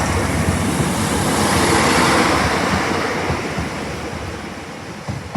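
Diesel multiple unit train running past and away, its engine and wheel rumble with a rushing wind-like noise peaking about two seconds in and then fading steadily.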